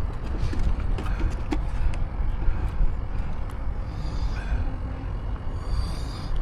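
Steady low outdoor rumble with scattered light clicks and ticks.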